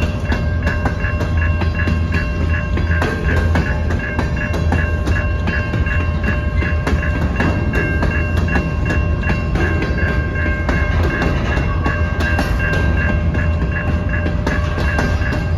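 Freight train of covered hopper cars rolling past: a steady low rumble with rapid clicks of the wheels over the rail joints, while a grade-crossing bell rings steadily.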